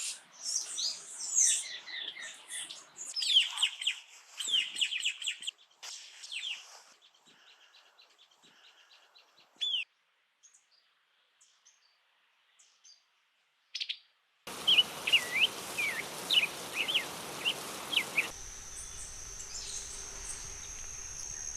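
Tanagers calling and singing in a sequence of separate field recordings: busy high chirps and sweeping notes at first, thinning out midway, then a series of short repeated notes over background hiss. From about 18 seconds in, a steady high-pitched insect buzz runs underneath.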